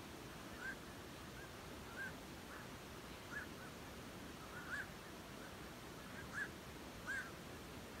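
Birds calling: a series of short calls that rise and fall in pitch, about one a second, the loudest two near the end, over a steady background hiss.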